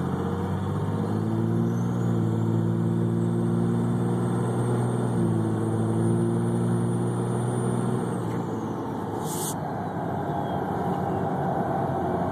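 Diesel pickup engine with S362/S475 compound twin turbos pulling hard under full throttle, with a high turbo whistle that rises as the turbos spool, holds, then falls away about eight seconds in as the engine note drops off. A single short click near the end.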